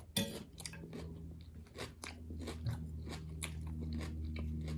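Crisp raw garden salad, with red cabbage, being bitten and chewed close to the microphone: a quick run of crunches, with a low steady hum underneath from about a second in.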